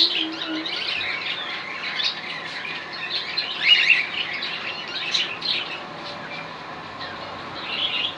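Birds chirping and squawking in a busy, overlapping chatter of short high calls, louder around the middle.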